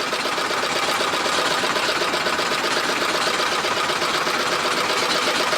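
Boat engine running steadily with a fast, even chatter.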